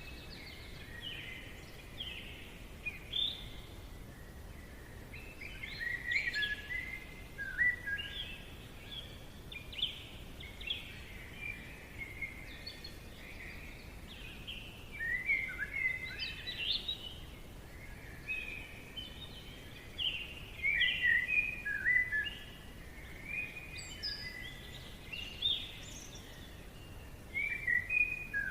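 Forest ambience: several birds singing, overlapping short chirps and trills throughout, over a faint steady background hiss.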